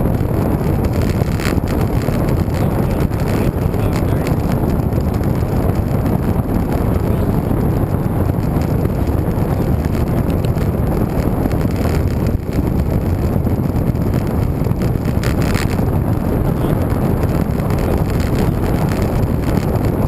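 Steady wind rush on the microphone of a camera carried on a moving road bike.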